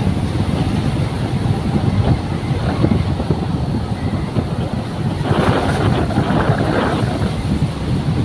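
Wind buffeting the microphone as a heavy, uneven low rumble, with a louder gust about five seconds in.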